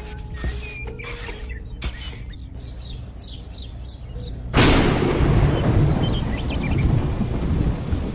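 Small mechanism clicking over a faint hum, then about four and a half seconds in a sudden loud crack of thunder that runs on into steady heavy rain with rumbling.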